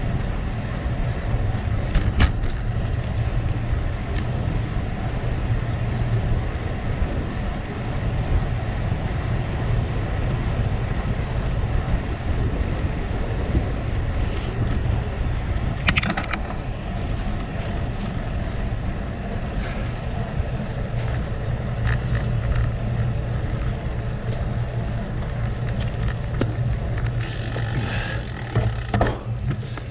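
Gravel bike tyres rolling over rough gravel, a steady crunching rumble with wind buffeting the microphone, broken by a few sharp clicks and rattles from the bike. A brighter rattle sets in near the end.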